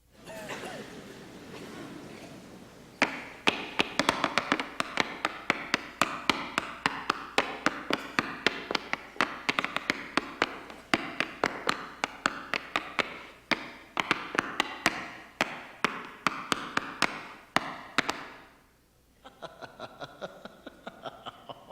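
Tap shoes striking a stage floor in quick, uneven runs of sharp taps. The taps stop briefly near the end, then resume more softly.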